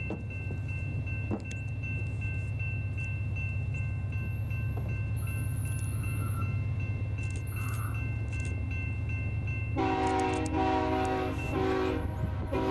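BNSF freight train's diesel locomotive approaching with a steady low engine rumble. About ten seconds in, its air horn sounds loudly, a long blast broken by short gaps.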